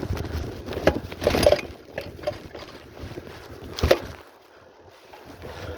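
Wind buffeting the microphone in uneven gusts, with a few sharp knocks or bumps about one, one and a half and four seconds in.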